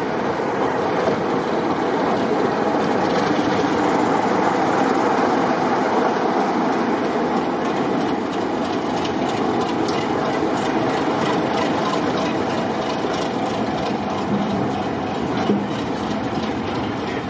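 Diesel-hauled train running along the line: a steady rush of running noise, with wheel clicks over rail joints in the second half.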